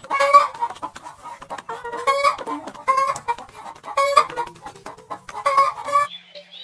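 Chickens clucking in clusters of short, repeated calls, about once a second, which stop abruptly near the end.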